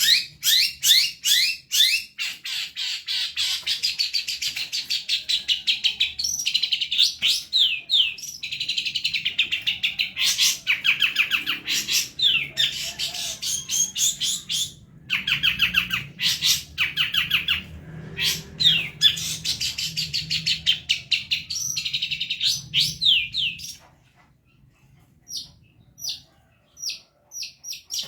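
Long-tailed shrike (cendet) singing a rapid, unbroken run of fast trills and sweeping notes. The song breaks off about 23 seconds in, and only a few short calls follow.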